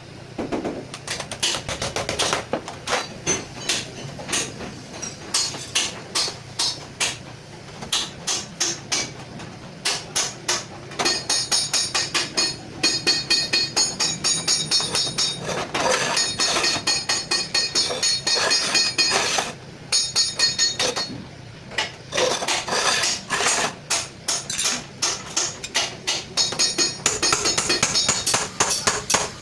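A hammer tapping on sheet steel in quick runs of strikes, several a second, with short pauses between runs.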